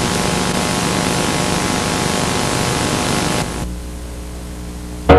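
Steady loud hiss with a low hum underneath, typical of an old analogue tape transfer, dropping to a quieter hiss and hum about three and a half seconds in.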